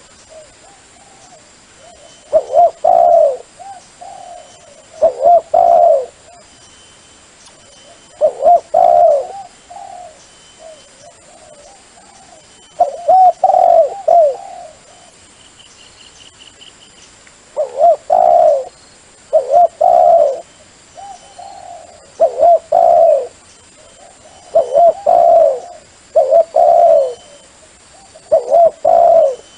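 Dove cooing: a recorded lure call for decoy trapping, with short phrases of a few low coos repeated every two to three seconds.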